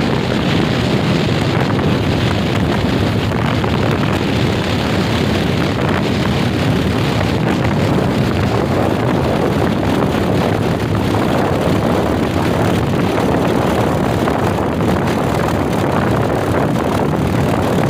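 Royal Enfield Himalayan motorcycle being ridden, its engine running steadily under heavy wind rush on the microphone.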